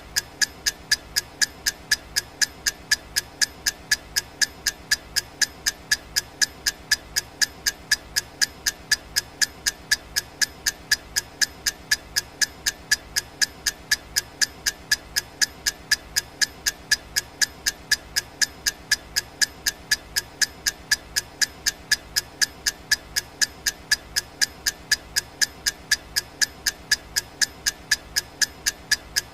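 Clock ticking sound effect: sharp, evenly spaced ticks, about two a second, over a faint steady hiss.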